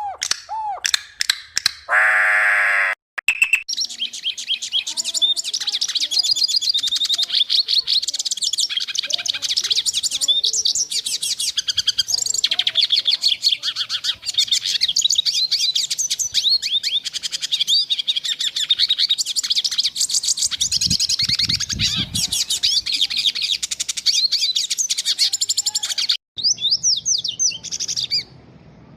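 A flock of small birds chirping in a dense, rapid, overlapping chorus. It is preceded in the first three seconds by a few springy boing-like sound effects, and the chirping thins out near the end.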